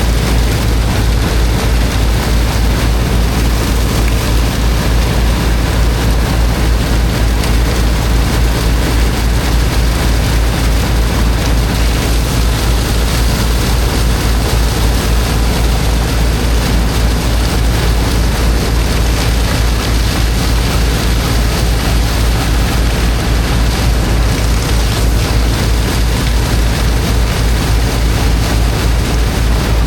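Engine of a high-pressure water pump running steadily with a rapid low pulse, under an even hiss of rushing water from the jet.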